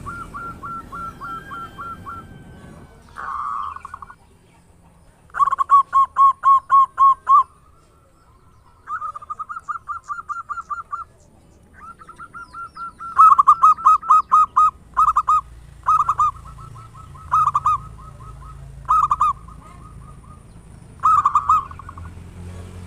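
Perkutut (zebra dove) cooing: repeated phrases of rapid, staccato notes on a single pitch, some as longer rattling trains and several as short bursts.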